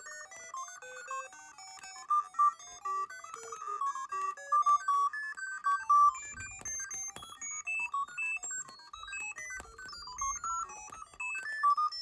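Two random tone generators beeping together out of sync: a constant overlapping stream of short electronic beeps that hop at random between pitches, in the style of a vintage computer's sound effects.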